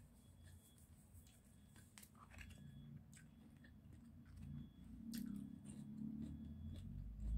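Close-miked ASMR chewing, crunchy, louder from about four and a half seconds in. Before it come a few light clicks of wooden chopsticks against the plastic sushi tray.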